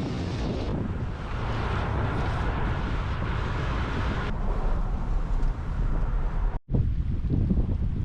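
Wind buffeting the microphone, a steady low rumble with a hiss over it that eases a little past halfway. The sound cuts out for a split second about six and a half seconds in, then the wind noise resumes.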